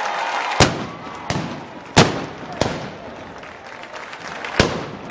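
Five sharp gunpowder bangs at uneven intervals, typical of festival arquebus shots or firecrackers, over crowd noise. The loudest is about two seconds in.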